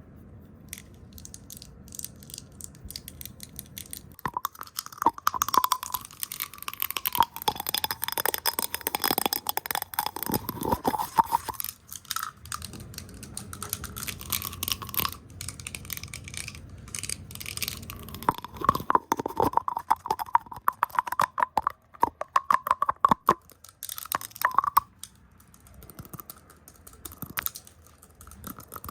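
Fast, chaotic close-up ASMR triggers right at the microphone: rapid brushing, tapping and hand rustling, heard as dense crackling scratches full of quick clicks. It is sparse and quiet at first, turns busy about four seconds in, and eases off briefly about midway and again near the end.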